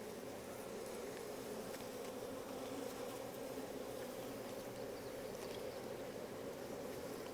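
Honey bee colony buzzing steadily from an opened hive as its frames are inspected, a dense even hum.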